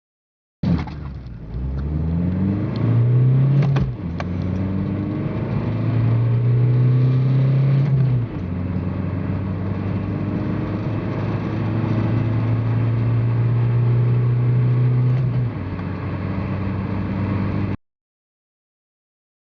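Volkswagen Polo Mk3's four-cylinder engine accelerating flat out from a standstill: the revs climb in each gear, with quick gear changes and a short clunk about four and eight seconds in, then a long pull in the next gear. The sound cuts off abruptly near the end.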